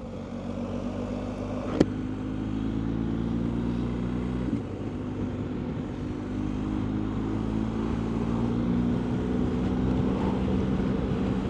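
BMW R1250GS boxer-twin engine running steadily on the move, its engine note slightly stronger in the later part, with a sharp click about two seconds in and a brief break in the engine note about four and a half seconds in.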